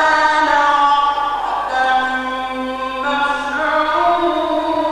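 A man's solo voice in melodic Quran recitation (tajwid), drawing out long held notes that glide slowly up and down in pitch, with short breaks between phrases.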